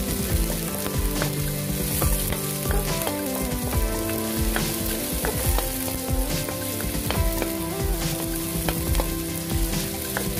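Chopped onion and garlic sizzling in hot oil in a wok, with the light clicks and scrapes of a wooden spatula stirring them.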